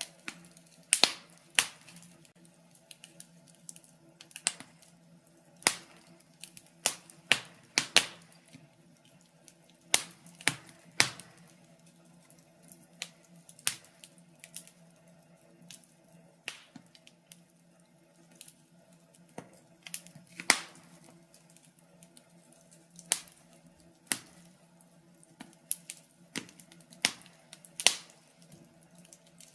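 Wood fire crackling in a fireplace: irregular sharp pops and snaps, sometimes several close together, over a faint steady hum.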